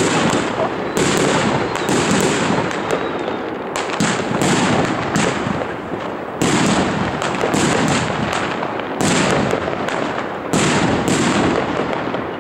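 A 121-shot fireworks battery firing: a rapid, continuous string of shots and bursts, with crackle between them.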